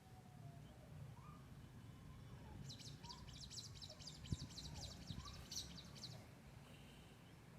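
A bird twittering in a rapid, high chattering run for about three seconds, with fainter scattered chirps around it. There is a single sharp knock partway through, over a faint low rumble.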